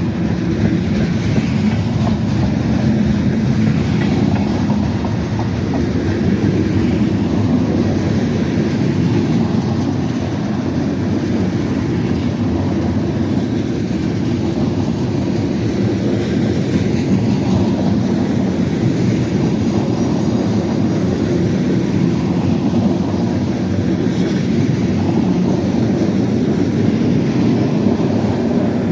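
Freight train rolling past, a steady loud rumble of railcar wheels on the rails with some clickety-clack.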